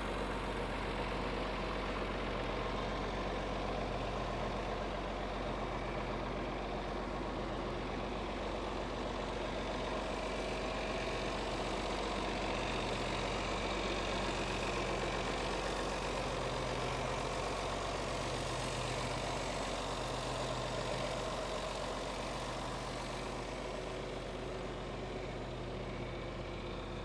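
1975 John Deere 4430's turbocharged six-cylinder diesel engine idling steadily.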